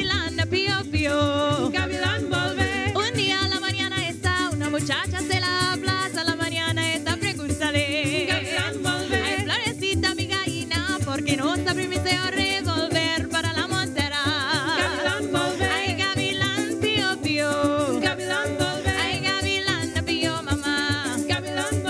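Parang music: a band singing and playing, with maracas shaking a steady rhythm.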